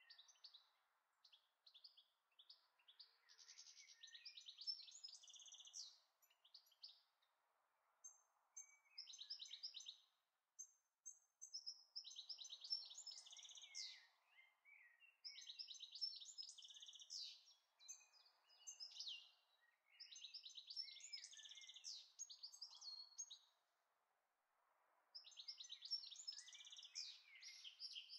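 Faint birdsong: groups of high chirps and trills, each lasting a few seconds with short pauses between them, over a soft hiss.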